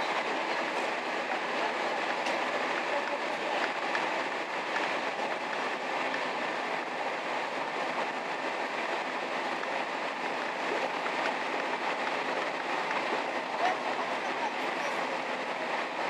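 Inside a Kashima Rinkai Railway diesel railcar running at steady speed: an even rumble of wheels on rail and the running train, with a few faint clicks from the track.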